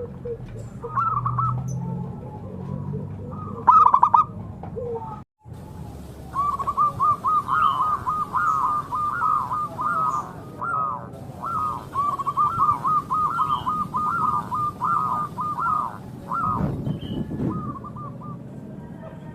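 Zebra dove (perkutut) cooing: runs of short, quickly repeated staccato notes, with a short break about five seconds in before a long unbroken run.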